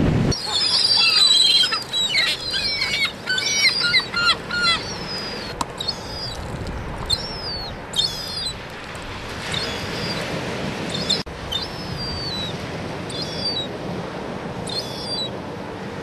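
Birds calling: a burst of many overlapping high-pitched calls with quick up-and-down glides for the first few seconds, then single calls every second or two over a steady hiss.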